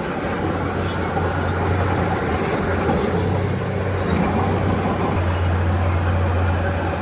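Diesel engine of a Komatsu D31P crawler bulldozer running steadily under work, with faint high squeaks scattered through it.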